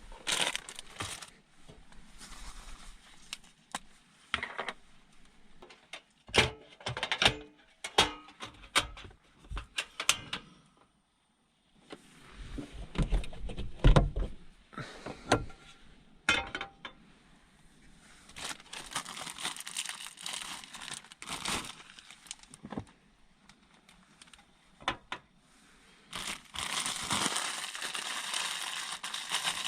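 Irregular clicks, knocks and crinkling of small objects and packaging being handled in the confined space of a car interior, with a stretch of steady hiss in the last few seconds.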